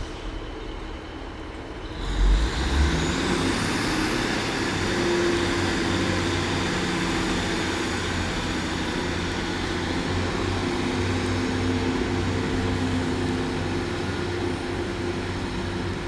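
Class 150 Sprinter diesel multiple unit's underfloor diesel engines throttling up as the double unit pulls away from the station. The engine noise swells about two seconds in, then runs steadily with a high whine that rises over the next couple of seconds and holds.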